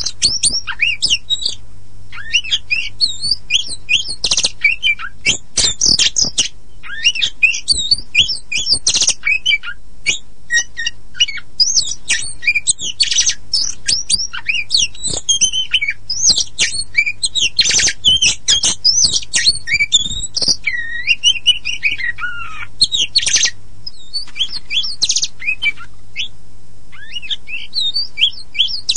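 Oriental magpie-robin (kacer poci, black-and-white form) singing continuously: a rich, varied run of loud whistles, quick trills and harsh buzzy notes in rapid phrases, with a falling slurred whistle about three-quarters of the way through. This is the full song that bird keepers play to a silent or young kacer to get it to start singing.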